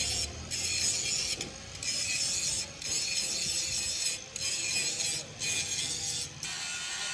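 Harsh high rasping from a workshop tool, in about six strokes roughly a second long with short breaks between, over a faint steady hum.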